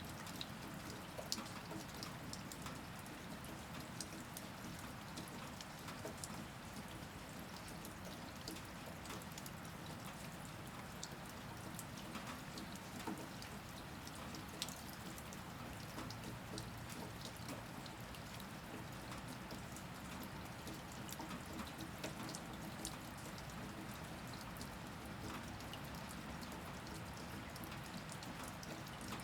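Steady rain falling, with many individual drops ticking sharply and irregularly against a surface over a constant hiss of rainfall.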